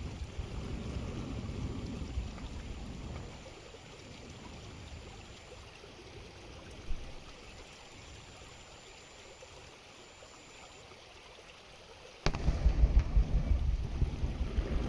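Wind buffeting the microphone as a low, uneven rumble. It eases off about three seconds in and comes back loud and sudden after a click about twelve seconds in.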